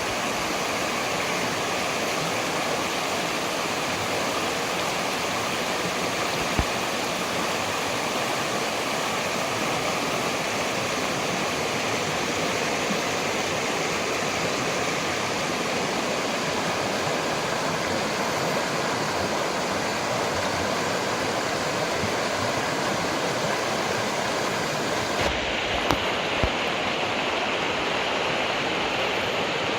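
Waterfall: a steady, unbroken rush of falling and splashing water, with a few faint knocks.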